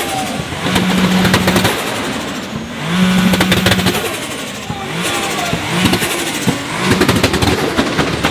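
Tuned performance car engine revved hard again and again, held briefly at a steady high pitch each time, then blipped in shorter revs near the end, with crackling pops from the exhaust throughout.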